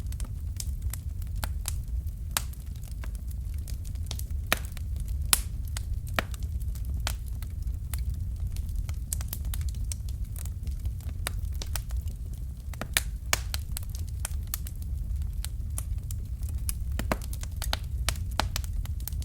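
Fire crackling in a fireplace: many irregular sharp pops and snaps over a steady low rumble, a few pops louder than the rest.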